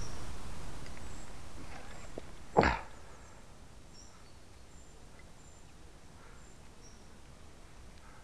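Low wind rumble on the microphone that dies away over the first few seconds, one loud short knock about two and a half seconds in, and faint, short, high bird chirps scattered throughout.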